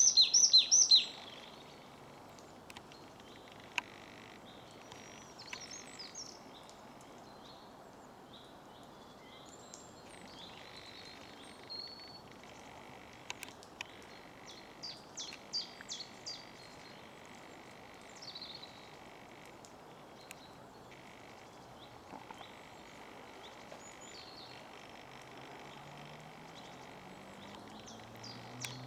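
Wild birds singing and calling: a loud run of quick, high, falling notes at the start, then scattered chirps and short phrases over outdoor background noise. A low drone rises in pitch near the end.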